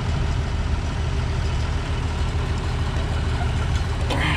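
Turbocharged farm tractor's diesel engine running steadily, a low, even rumble.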